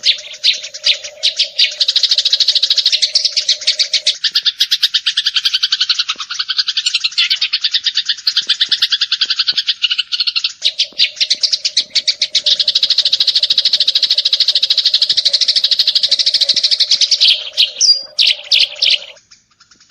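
Eurasian tree sparrow chirping in a fast, unbroken stream of calls, rapid-fire chattering that stops suddenly near the end.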